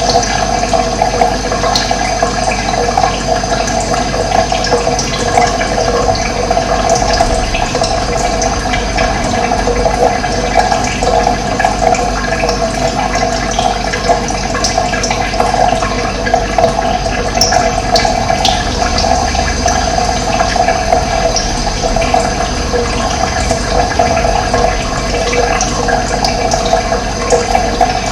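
Running water flowing steadily and without a break, with a few faint high chirps of birds.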